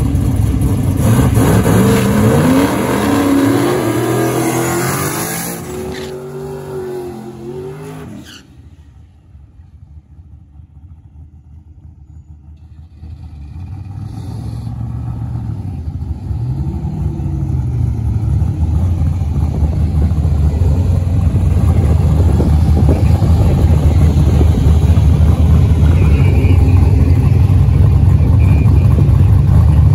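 V8 drag cars accelerating hard, the engine pitch climbing and dropping back at each gear shift, then fading away. After a quiet stretch, a deep V8 rumble builds up and stays loud and steady.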